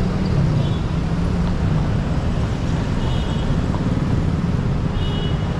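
Steady road traffic rumble of motor vehicles, with a few brief high chirps.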